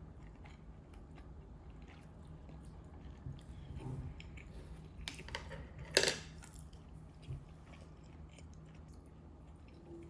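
Someone chewing and biting food, with scattered small clicks and one sharp knock about six seconds in.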